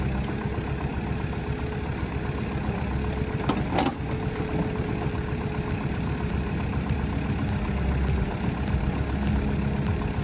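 Diesel engine of heavy construction machinery running steadily, with a few short knocks, the clearest a little under four seconds in.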